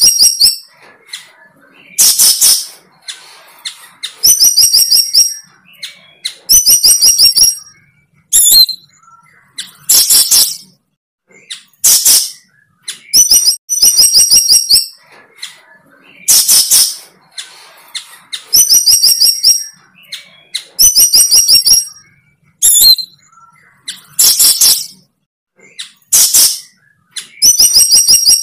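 A bird calling loudly and repeatedly. Quick runs of short high chirps alternate with short harsh rasps, each outburst coming about every two seconds.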